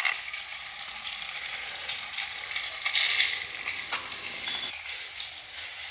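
Battery-powered Trackmaster toy train's motor and gears whirring, with a few sharp clicks.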